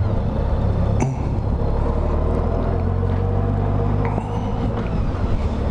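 2012 Honda Goldwing's flat-six engine running under way, a steady low rumble heard from a microphone inside a full-face helmet, with a couple of brief clicks.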